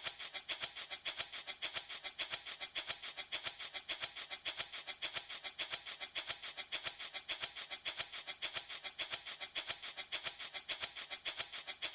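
Handmade baby rattle shaken continuously in a steady, even rhythm, a dry, bright rattling of the beads inside.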